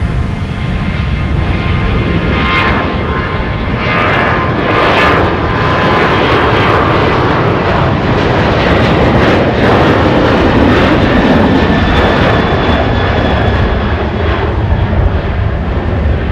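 Boeing 737-800 jet engines at takeoff power: a loud, steady jet noise with whining fan tones that fade out around the middle.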